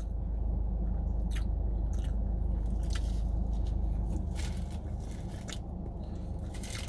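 Biting into and chewing an English egg muffin up close, with a few sharp clicks. Under it a steady low rumble eases about four seconds in.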